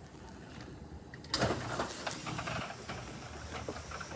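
Overhead door opener starting about a second and a half in and running, a steady mechanical whir with scattered clicks as the door moves.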